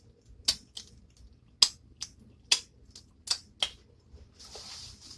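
A series of about seven sharp, separate clicks over four seconds, followed near the end by a soft rustling hiss.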